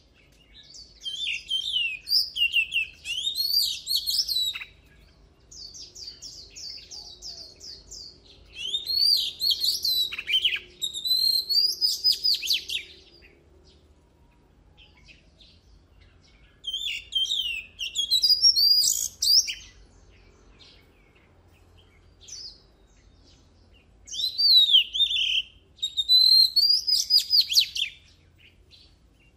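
Oriental magpie-robin singing loud bouts of rapid, varied whistles and trills, four bouts in all, with short pauses and softer runs of repeated notes in between.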